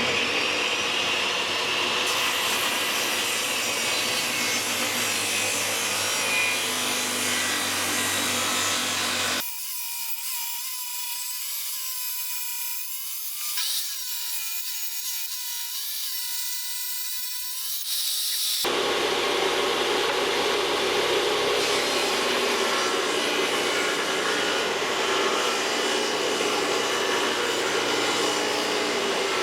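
Power tool sawing or grinding through material, a steady noisy run in three spliced takes. The middle take, about a third of the way in to about two-thirds, is quieter and thinner, with a faint wavering whine.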